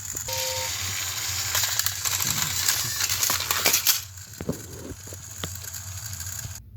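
Plastic toy trains clattering and rattling on toy track: a dense crackle of small clicks for about four seconds, then quieter with scattered clicks. A brief two-note beep sounds near the start.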